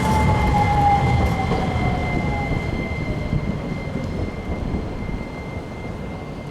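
Hiroshima Electric Railway tram no. 5101 running past and moving away, its running noise fading. A motor whine falls in pitch over the first couple of seconds, while a steady high tone carries on.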